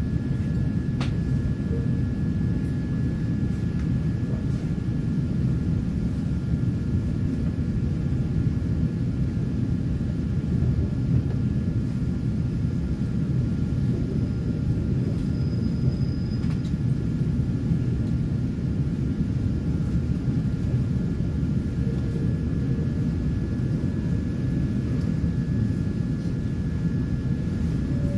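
Steady low rumble of an electric commuter train heard from inside a carriage, with a faint steady high whine running through it.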